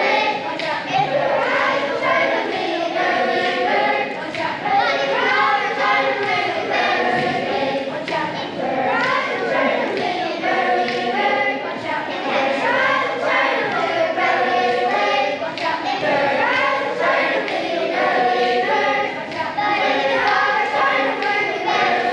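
A choir singing, many voices together with continuous, shifting melodic lines.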